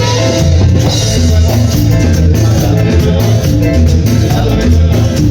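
A live band playing cumbia loudly, a heavy bass line pulsing on a steady dance beat under pitched keyboard or accordion lines.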